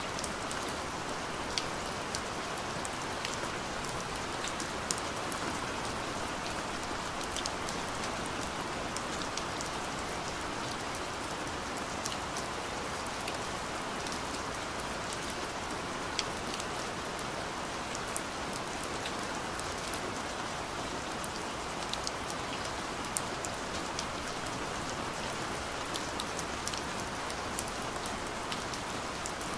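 Steady rain falling on wet tarmac: an even hiss with scattered sharp ticks of individual drops.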